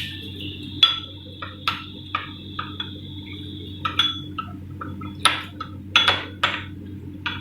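A spoon clinking against a small glass bowl while stirring cornflour into water: irregular sharp, ringing taps, with a few louder ones about five to six and a half seconds in, over a steady low hum.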